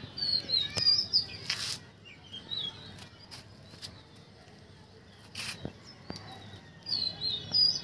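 Small birds chirping and twittering in short high calls, clustered near the start and again near the end. Two brief hissing rustles come in between.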